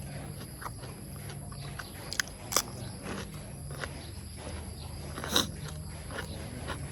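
Someone eating: chewing, with scattered small clicks and three sharper ones, the loudest about five and a half seconds in, over a steady low hum.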